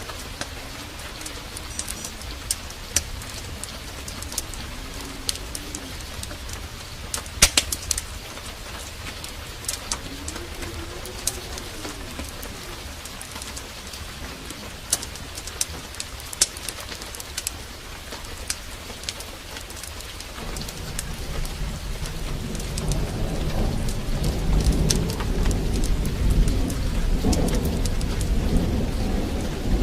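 Heavy rain falling steadily, with scattered sharp crackles and a bird cooing a few times in the first half. A low rolling rumble of thunder builds from about two-thirds of the way through and grows louder.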